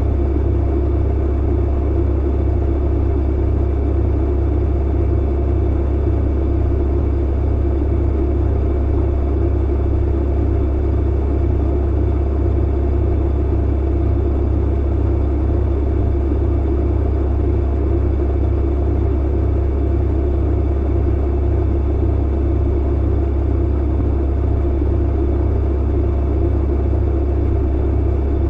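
Clothes dryer running: a steady, unbroken low rumble of the motor and turning drum, with a few faint steady tones above it.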